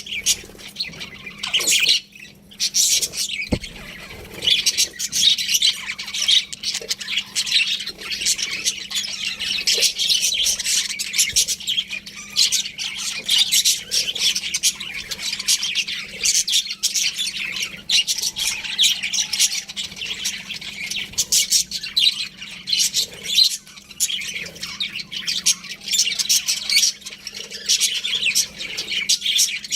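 Budgerigars chirping and chattering, many quick overlapping high calls with a short lull a few seconds in. A faint steady hum runs underneath.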